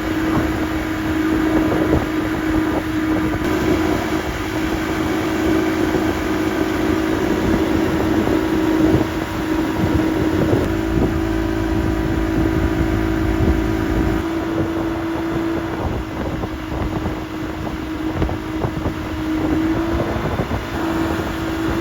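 A motorised watercraft's engine running at a steady pitch at speed, over rumble and wind buffeting the microphone; the pitch shifts up briefly near the end.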